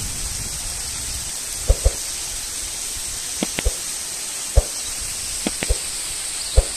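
Heavy rain falling steadily, a dense hiss, with several short soft thumps scattered through it, some in quick pairs.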